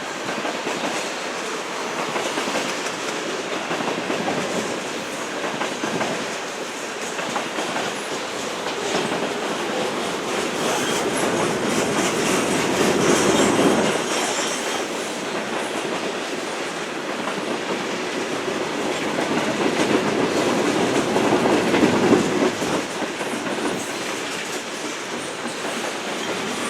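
CSX freight train rolling past, its cars' wheels running over the rails in a continuous rumble. It swells louder about halfway through and again near the end.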